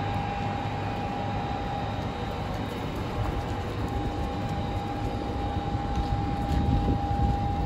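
A stationary TGV power car at the platform, running a steady hum with a constant whine from its onboard equipment over a low rumble.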